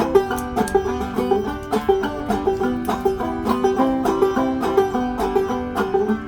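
A band playing an instrumental passage with quick plucked-string picking over a steady rhythm, with no singing.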